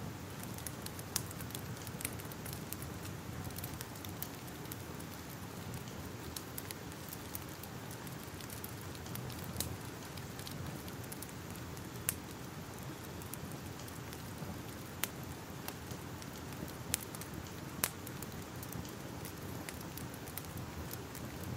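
Fire crackling: a steady soft hiss with scattered sharp pops, a few of them louder and spaced a couple of seconds apart.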